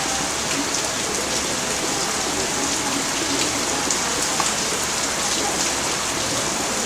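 Steady rain falling on a hard surface: a constant hiss with scattered individual drops ticking through it.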